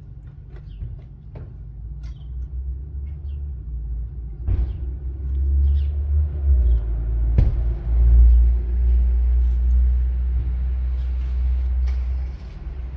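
Honda Shadow 600's V-twin engine running with a low, steady rumble that swells louder about five seconds in and eases off near the end, with a few sharp clicks.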